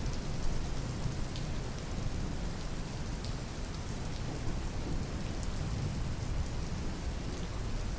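Steady rain falling, with scattered sharp drop ticks over a low, heavy rumble.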